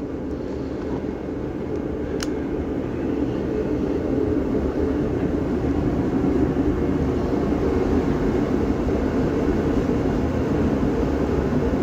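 Steady low mechanical drone, growing slowly louder, with a single sharp click about two seconds in.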